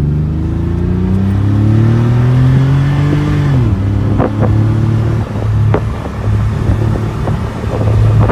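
Porsche 964's air-cooled flat-six pulling under part throttle, its note rising steadily for about three and a half seconds, then dropping sharply as the revs fall. It then settles into a steady low drone with a few sharp ticks.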